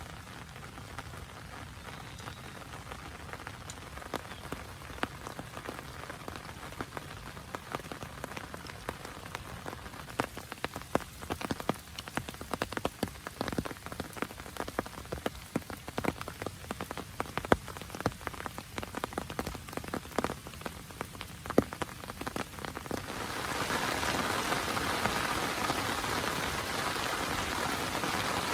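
Rain, with many separate drops tapping sharply on a surface. About three-quarters of the way through it turns suddenly into a louder, steady downpour hiss.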